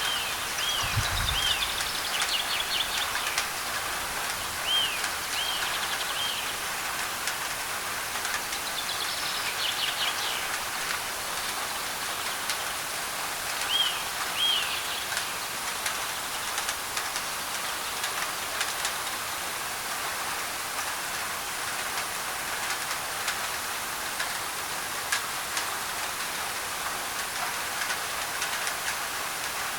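Steady rain pattering on a thin tin roof, a dense hiss with fine drop ticks. Birds give short repeated chirps in groups during the first half.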